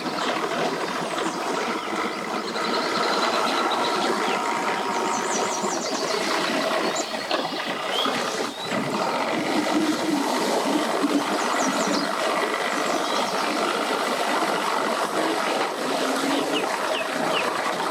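Steady outdoor mix of boat and vehicle engines running, with a few short high chirps now and then.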